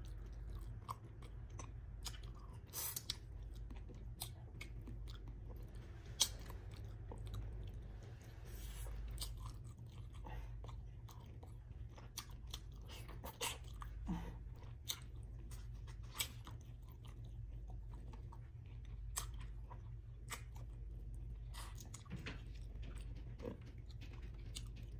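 Close-up chewing and mouth sounds of a person eating salmon head stewed in vinegar with rice, by hand: wet smacks and clicks at irregular moments. A steady low hum lies underneath.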